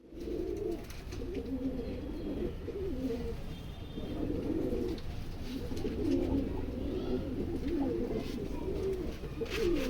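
Racing pigeons cooing: a continuous low, warbling coo with calls overlapping one another.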